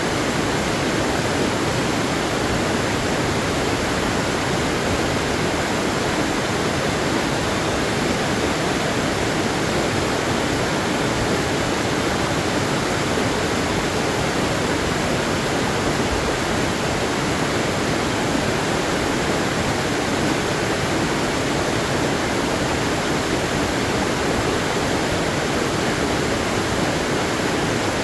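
Waterfall running, a steady even rush of falling water with no break or change.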